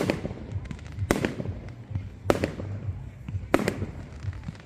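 Fireworks going off in a regular salvo: four sharp bangs about a second and a quarter apart, each trailed by a brief crackle.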